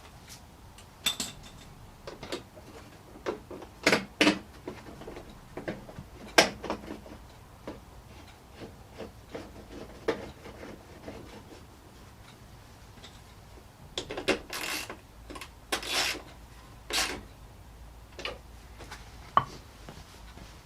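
Irregular knocks, clicks and scrapes of hard plastic car parts and hand tools being handled while a headlight unit is fitted and adjusted. There is a sharp knock about six seconds in and a busy run of scrapes and knocks between about fourteen and seventeen seconds in.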